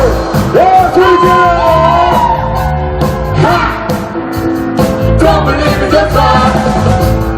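Live band music: a singer's voice sliding up and down in long held phrases over bass and drums.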